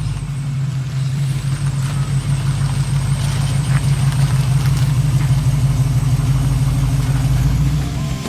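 Car engine running with a steady low drone, growing a little louder over the first couple of seconds and easing off near the end.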